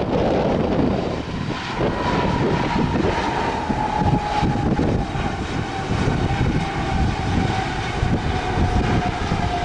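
Jet airliner engines passing, their whine sliding slowly down in pitch, over gusty wind buffeting the microphone.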